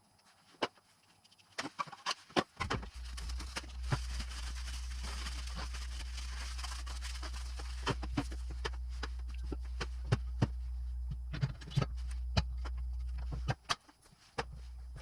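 Irregular clicks and knocks of metal tools and engine parts being handled, over a steady low hum that cuts out for about a second near the end.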